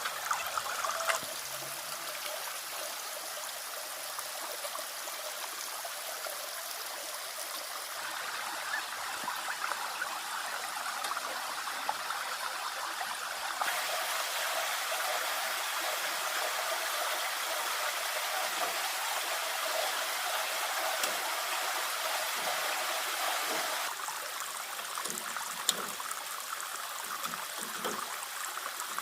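Running water, a steady splashing rush, changing in tone abruptly a few times, with a few light clicks.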